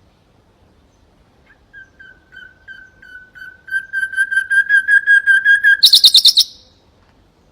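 Common nightingale singing: a run of repeated pure whistles, soft at first and swelling steadily louder, then a fast, high trill near the end.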